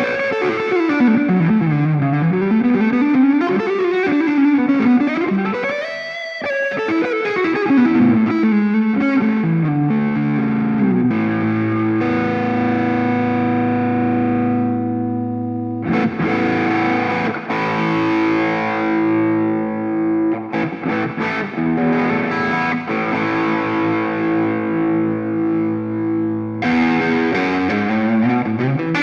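Electric guitar played through a Ring Red Swan distortion pedal: a lead line with wide sliding pitch bends up and down for the first several seconds, then distorted chords held and left to ring, restruck twice.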